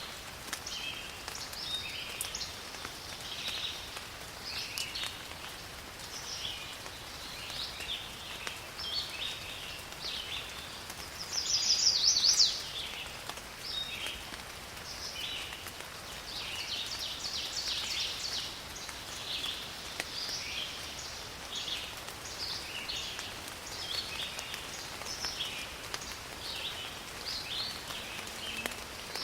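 Rain in a forest, a steady hiss, with many birds chirping throughout. A louder, higher bird call stands out about twelve seconds in.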